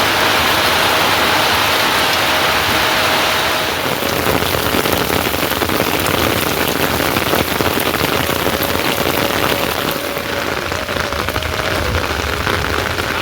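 Steady rain falling on a surface, a dense patter of drops that eases slightly about four seconds in.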